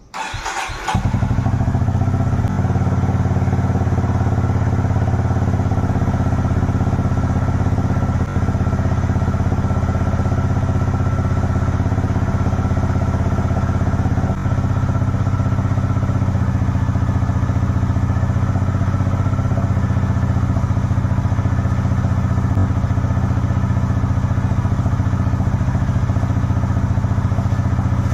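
Honda H'ness CB350's single-cylinder engine started from cold: it catches about a second in and then idles steadily.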